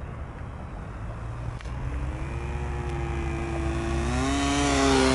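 Small model-airplane engine of an RC plane in flight, growing steadily louder as it approaches, its pitch steady after a slight rise.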